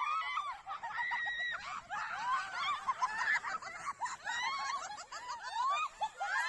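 Several high-pitched voices laughing and squealing, overlapping.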